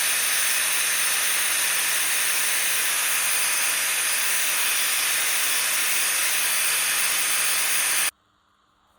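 A loud, steady hiss with a faint low hum under it, cutting off suddenly about eight seconds in.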